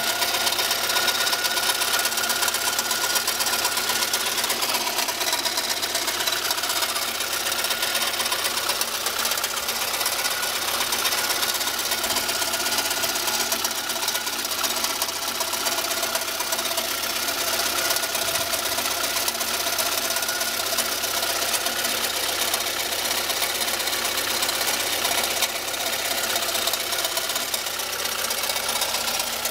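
The 1.6-litre 8-valve petrol engine of a 2004 VAZ-21112 running steadily, with the strange noise from the engine that the owner is asking about mixed into its sound.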